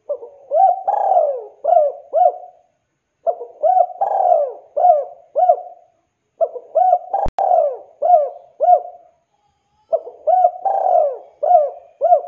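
Spotted dove (tekukur) cooing: a phrase of five or six swooping coo notes, repeated four times with short pauses between. A single sharp click sounds partway through the third phrase.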